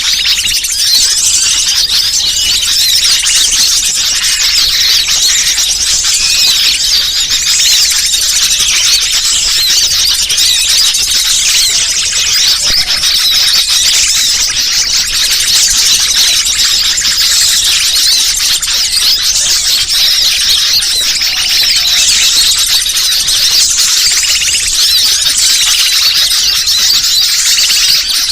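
A loud, dense, unbroken chorus of high-pitched small-bird chirps and squeals: a looped bird-lure recording meant to draw wild birds in.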